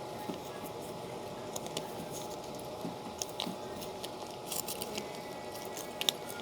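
Close-up chewing and crunching of homemade breaded fried snacks (onion rings and cheese sticks), heard as scattered sharp crisp crackles, the sharpest near the end, over a steady room hum.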